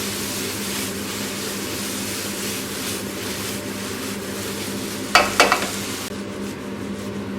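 Mushrooms and onions sizzling as they fry in a pan, over a steady low hum. A little past halfway, a utensil scrapes and knocks against the pan a few times as they are stirred.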